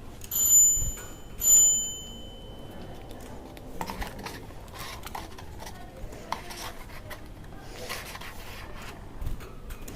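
Two bright ringing dings about a second apart, each fading over about a second, followed by scattered light clicks and rubbing.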